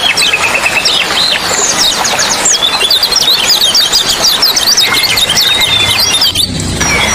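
Small songbirds chirping and twittering in rapid runs of short, sharp notes over a steady rush of flowing water. The high sounds briefly drop out about six and a half seconds in, then resume.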